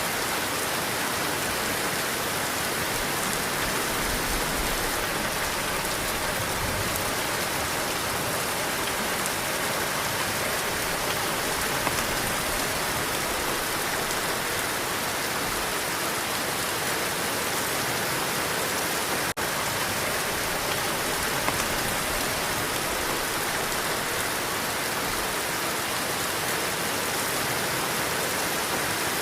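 Heavy rain falling steadily, a dense, even hiss of drops with no let-up, broken only by a momentary dropout about two-thirds of the way through.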